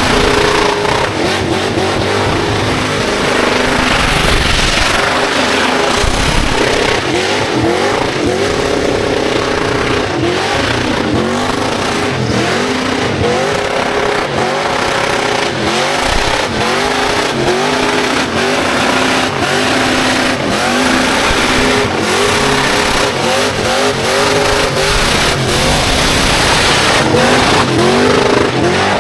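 Car engine revving hard over and over in short rising bursts during a burnout, with a steady noisy wash of spinning tyres underneath.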